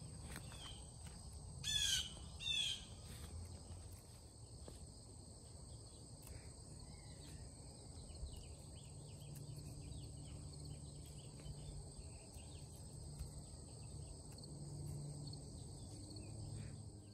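A songbird calling twice about two seconds in, each call a short run of quick falling chirps, over faint garden background with a steady high insect drone.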